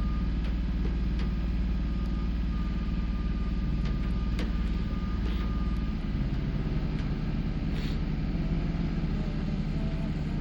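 Steady low rumble of an idling engine, with a faint steady high tone through the first half and a few light clicks.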